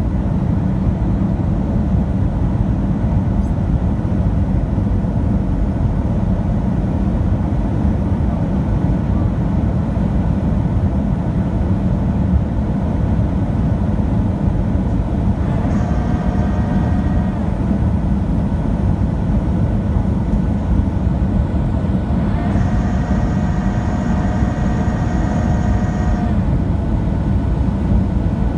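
Steady low rumble of a Boeing 737-700's cabin in flight, from engine and airflow noise. Twice, about 16 seconds in and again from about 22 to 26 seconds, a steady whine at one fixed pitch rises above the rumble and then stops.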